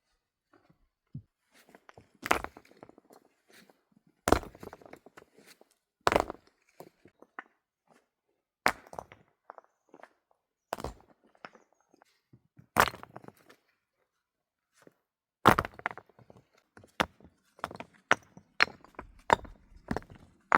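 A series of heavy thuds or blows, about one every two seconds, then a quicker run of lighter knocks near the end.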